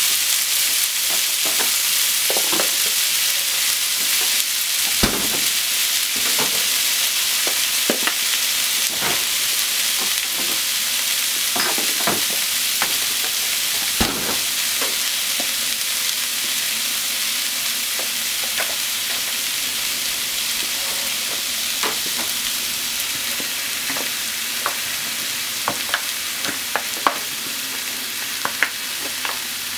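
Chicken, potatoes and onions frying in a pan: a steady sizzling hiss with scattered pops and crackles, and a few sharper clicks near the end.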